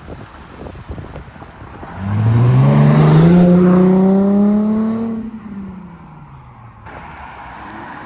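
Infiniti G35's 3.5-litre V6 through an ISR single-exit aftermarket exhaust, accelerating hard. A loud engine note climbs in pitch for about three seconds starting around two seconds in, then drops and fades away.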